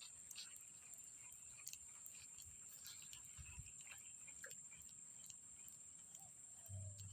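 Near silence: a faint steady high-pitched tone with scattered light ticks and a few soft low thumps, the clearest near the end.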